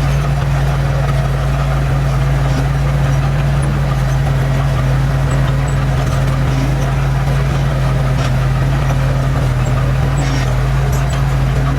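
Diesel engine of a heavy earthmoving machine running steadily at an even pitch, with no revving.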